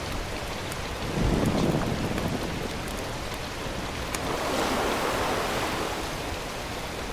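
Steady rushing noise of wind and surf, with a gust of wind buffeting the microphone about a second in.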